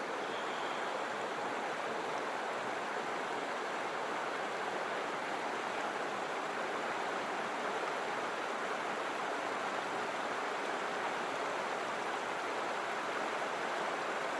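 A mountain stream's water rushing steadily, an even noise that does not change.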